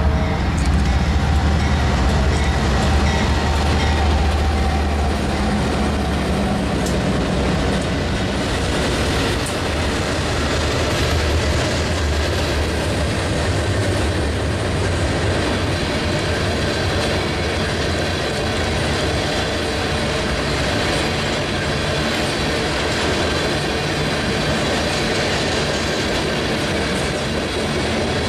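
A diesel-hauled freight train passing close by. The locomotives' engines drone low for the first several seconds. After that, a long string of tank cars and boxcars rolls past with steady wheel-on-rail rumble and clatter.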